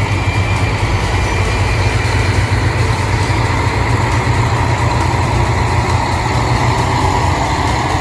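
Diesel engine of a KiHa 54-500 series railcar running with a steady low hum.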